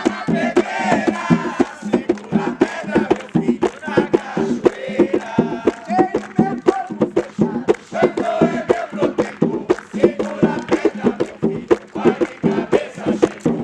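Ceremonial drumming in a fast, steady rhythm under a group of voices singing a chant to the orixá Xangô.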